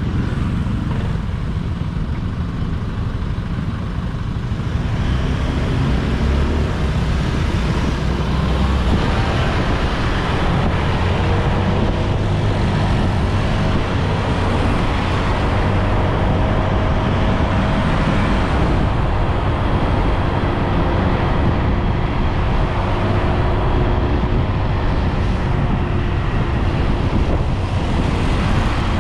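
Motorbike underway on a road: engine running with steady road and traffic noise, a little louder from about five seconds in.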